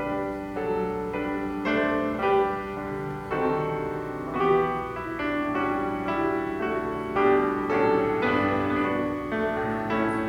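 Piano music: an instrumental piece with notes and chords struck one after another, without singing.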